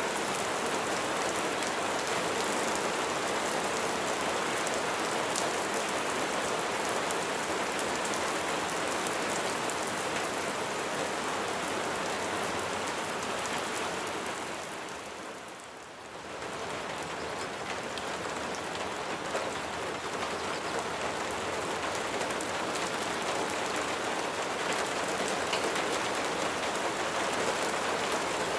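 Steady rain falling, a dense patter of drops. About halfway through it briefly fades down and swells back up.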